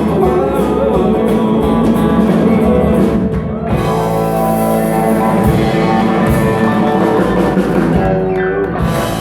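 Live country-rock band playing the instrumental close of a song, with guitar over a drum kit and a falling slide near the end.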